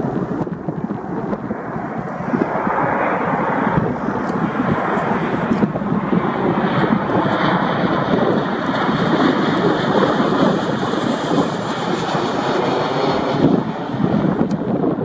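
Boeing 737-800's CFM56-7B turbofans on landing approach, passing low overhead. The broad engine rush builds about two seconds in, and a high fan whine joins it from about six seconds in until it falls away near the end.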